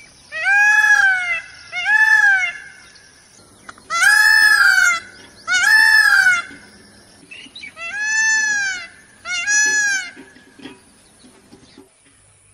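A large bird calling six times, loudly: each call is about a second long and rises then falls in pitch, and they come in three pairs.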